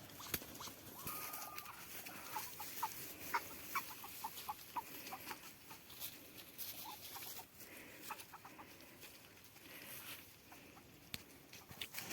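Domestic ducks eating and making soft, short cooing calls, a scatter of brief notes with a few sharp clicks among them.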